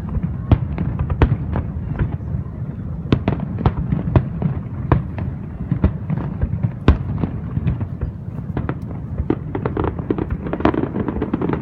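Fireworks display: a rapid stream of bangs and crackling shell bursts, several a second, over a continuous low rumble of explosions.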